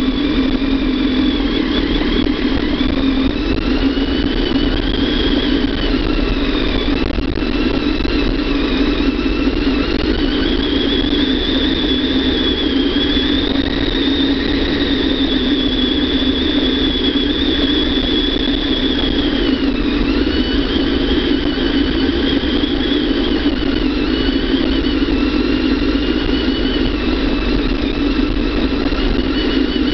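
Kawasaki ZX-10R's inline-four engine running steadily, heard from on the bike, with a thin high whine that slowly rises and falls in pitch as the speed changes.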